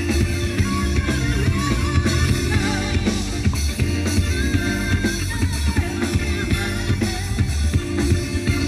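Live rock band playing, recorded from the audience: a drum kit keeps a steady beat under bass and guitar, with a wavering lead melody line on top.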